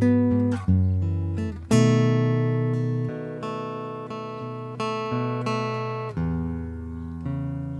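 Acoustic guitar played slowly and softly: plucked notes and chords struck about once a second, each left to ring out and fade.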